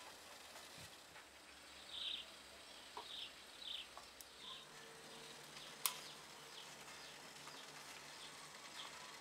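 Faint bird chirps: a run of short high notes about half a second apart that fade away, with one sharp click about six seconds in.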